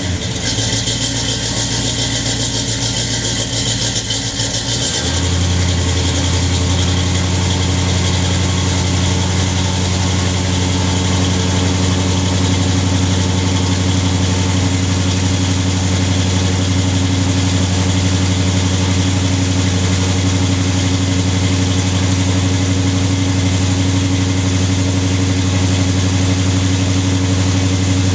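A 350 cubic-inch V8 in a 1968 Pontiac Beaumont idling shortly after its first cold start after winter, exhaling through Thrush welded mufflers with an X-pipe. About five seconds in its idle settles to a different speed, then runs steady.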